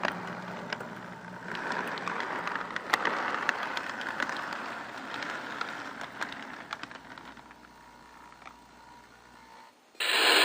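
O gauge model train running on its track, heard from a car of the train: a steady rolling rumble with scattered clicks from the wheels, fading gradually. A loud burst of noise comes in right at the end.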